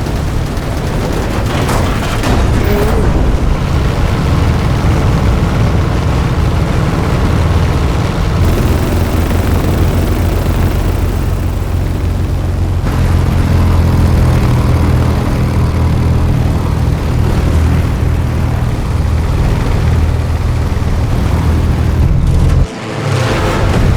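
Heavy, steady vehicle rumble, mostly low, with booming noise over it, dropping away suddenly for a moment near the end before coming back.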